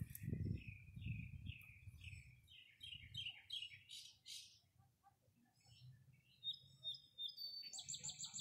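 Songbirds chirping: a run of short notes that quickens over the first few seconds, then a fast high trill near the end, over a low rumble.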